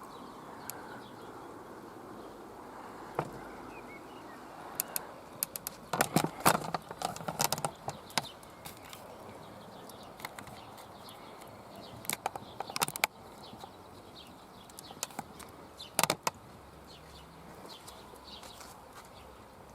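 Quiet outdoor background with scattered sharp clicks and knocks: a single one about three seconds in, a cluster from about five to eight seconds, more around twelve to thirteen seconds, and one near sixteen seconds.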